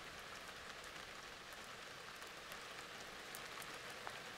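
Faint light rain falling outdoors: an even hiss with scattered small drop ticks.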